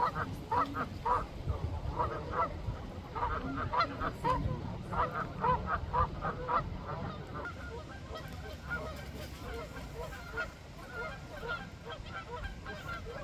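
A large flock of ducks calling, many short honking quacks overlapping, busiest in the first half and thinning out and growing fainter later on.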